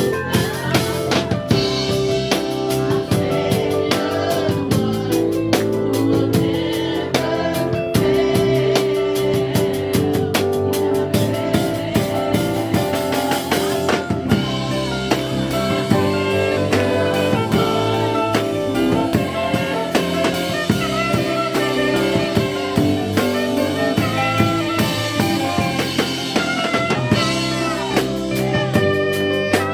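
Instrumental band music with a drum kit keeping a steady beat under held chords.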